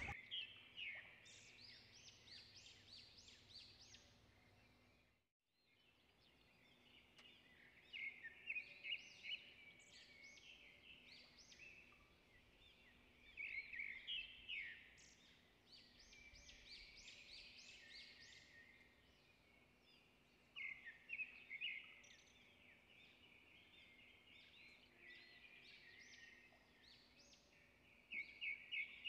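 Birds chirping in the trees: quick runs of short, high chirps come every few seconds, some louder than others.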